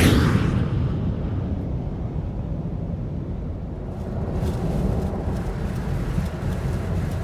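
Car driving on the highway: steady low road and engine rumble. A brief louder rush dies away in the first half second.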